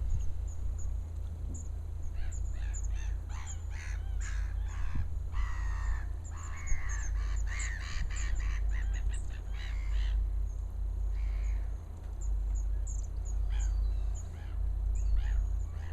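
Wild birds calling: a busy run of short, harsh repeated calls with high chirps over them, thickest from about three to ten seconds in, over a steady low rumble.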